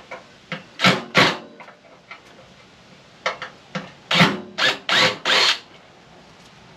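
Hand tools scraping and rasping on a microwave's metal parts as it is taken apart: a pair of short scrapes about a second in, then a quicker run of five or six a couple of seconds later.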